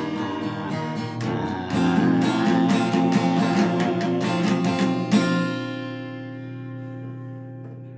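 Acoustic guitar strummed in a song's closing bars, then a final chord about five seconds in that rings on and fades away.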